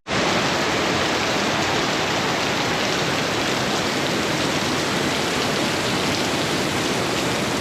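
Heavy tropical downpour: rain falling hard and steady with an even hiss.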